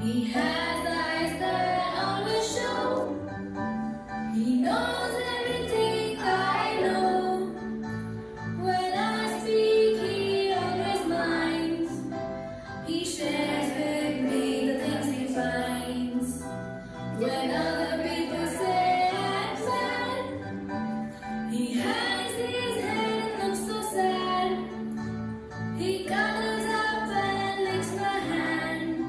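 A song with a female or child voice singing in phrases of a few seconds over a steady instrumental backing.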